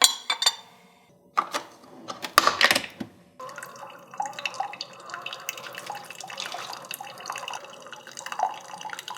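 Several sharp clinks and knocks of kitchenware, then about six seconds of steady trickling liquid with little drips, cutting off abruptly at the end.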